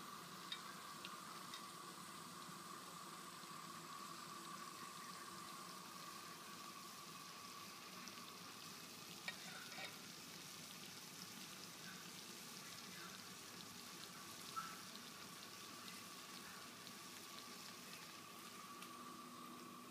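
Crawfish stir-frying in a pan over a gas burner, a faint steady sizzle, with a few sharp clicks of a spatula against the pan.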